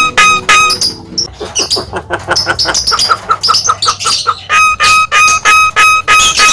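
Javan myna calling loudly, repeating a short clear note about three times a second. A faster run of chattering chirps cuts in for a few seconds, then the repeated note resumes.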